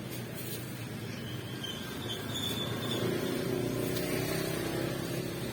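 An engine running steadily, getting louder from about halfway in.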